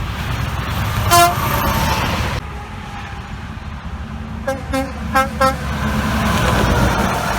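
Highway traffic passing, with a truck horn giving one short loud blast about a second in, then four quick short toots a little before the end.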